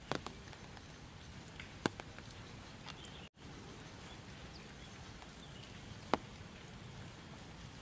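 Steady outdoor background noise with a few single sharp clicks or taps, the loudest about two seconds in and about six seconds in.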